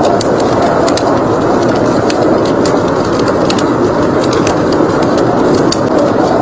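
Steady rush of blizzard wind with a wood fire crackling over it: frequent sharp, irregular pops and snaps.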